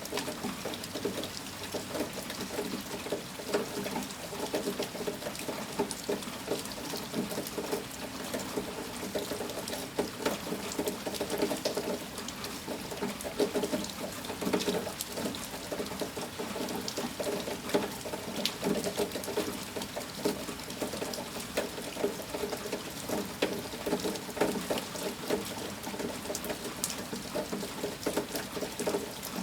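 Steady rain falling, a dense patter of many small drops and ticks with no let-up.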